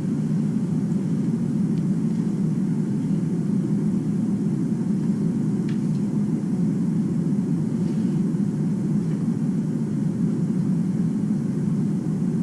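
Steady low rumbling hum with a few faint ticks.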